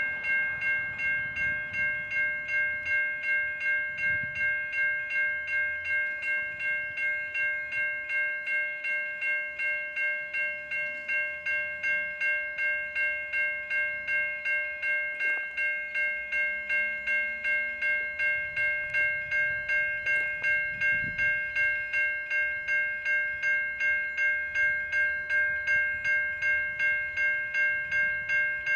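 Safetran Type 3 electronic level-crossing bells ringing steadily at about two and a half strokes a second, the warning that the crossing is active.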